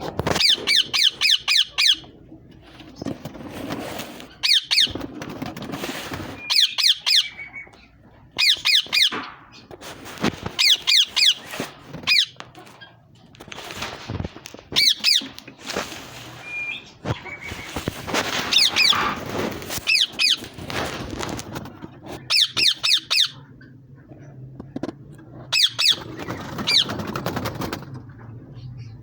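Green ringneck parakeets screeching: repeated bursts of rapid, shrill calls every couple of seconds.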